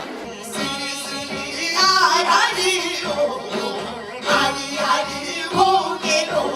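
Korean traditional music performed live: a voice sings long held notes with wide, wavering vibrato over struck percussion.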